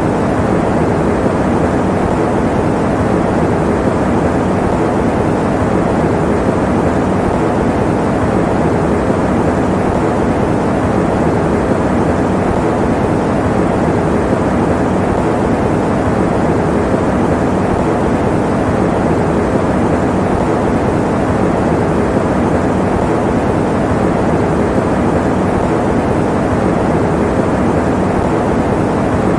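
Electric fan running steadily: an even, unbroken rushing noise, deep rather than hissy.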